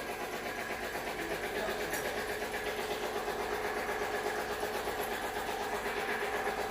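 A motor running steadily at constant speed, with an even hum and a higher steady whine.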